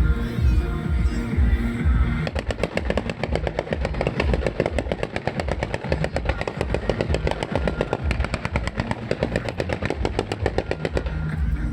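Fireworks going off in a rapid string of sharp bangs, many a second, from about two seconds in until near the end, over show music with a steady beat.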